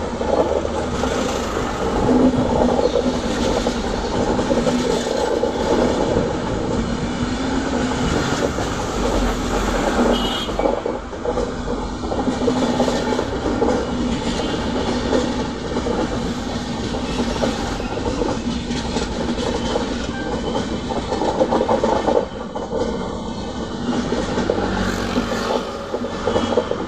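Indian Railways passenger train passing close by: a steady rumble of coaches with the wheels clattering over the rail joints.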